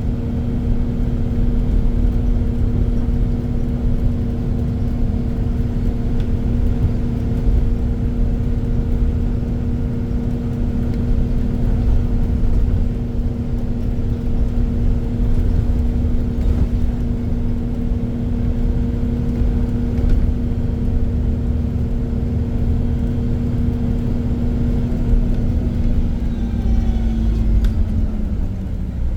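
Iveco Crossway LE Line 14.5 m bus running along at a steady speed: a low rumble with a steady hum held at one pitch. Near the end the hum drops slightly in pitch and fades.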